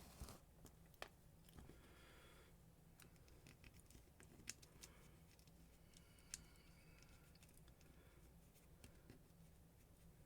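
Near silence: faint room tone with a scattering of small, sharp clicks and light scraping.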